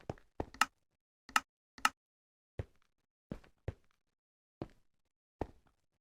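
A series of about ten short, soft taps and plops at an irregular pace, with dead silence between them; three of them, in the first two seconds, are sharper and brighter than the rest.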